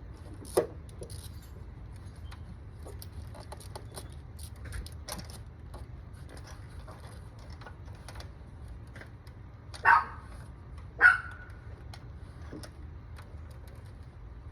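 Small metallic clicks and clinks of hand tools at work on the engine, with three short loud sounds: one about half a second in and two about a second apart near the end.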